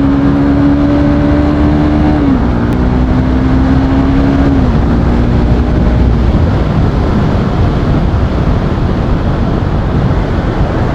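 Motorcycle engine running at a steady pitch that drops twice in the first five seconds, then fades under steady wind and road rumble on the riding microphone.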